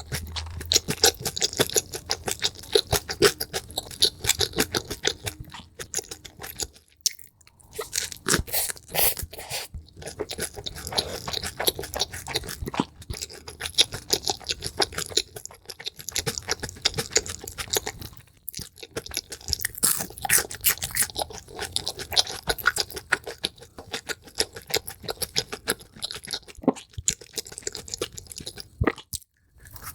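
Close-miked crunchy chewing and biting, sped up: a dense run of rapid crunches with a few short pauses.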